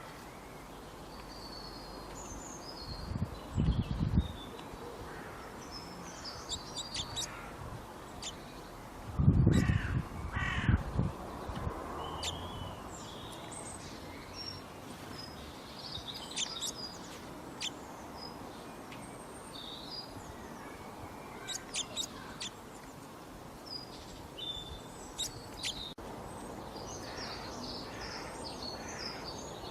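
Outdoor ambience of birds chirping and calling over a steady hiss, with a few harsher, lower calls and two louder low-pitched bursts, about four and ten seconds in.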